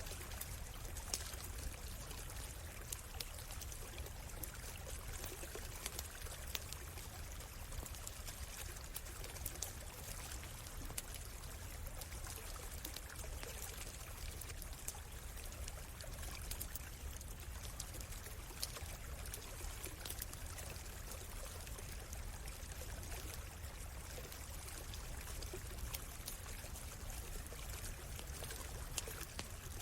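A stream flowing steadily, with a campfire crackling over it in scattered sharp pops.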